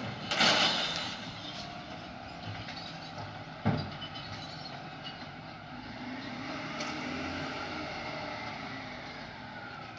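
Garbage truck running, with a short loud hiss about half a second in and a single sharp knock a few seconds later.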